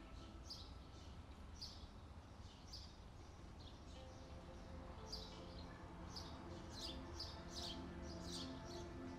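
Faint birdsong: short high chirps repeating, coming more often in the second half, over faint sustained tones of soft background music.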